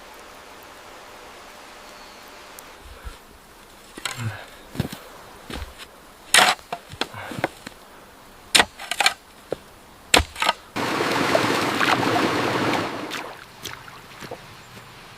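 Hard stones knocking and clacking together in scattered single hits as they are set in place, then a rush of noise lasting about two seconds.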